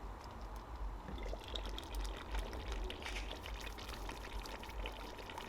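Pot of chicken tomato stew bubbling on the heat, with many small pops and crackles over a low rumble.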